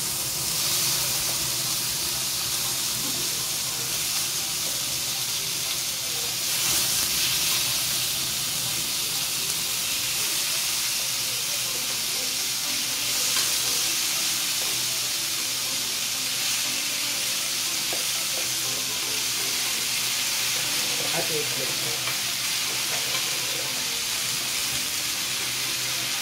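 Diced tofu, potatoes and vegetables sizzling in hot oil in a pan, stirred and scraped with a metal spoon. The sizzle is steady and swells for a moment a few times.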